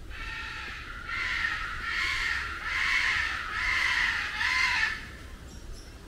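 A large bird calling: a rapid run of about five loud, harsh calls, each under a second, ending suddenly about five seconds in.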